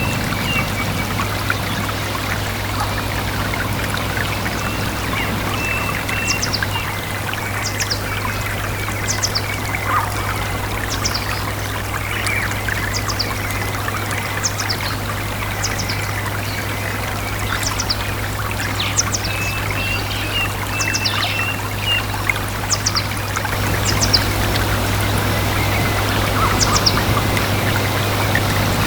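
A stream running and trickling steadily, with small birds calling over it in short, high, falling chirps every second or so.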